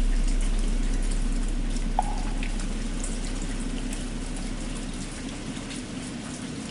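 Steady rain falling, under the deep ring of a struck bell dying slowly away. A single short, light knock sounds about two seconds in.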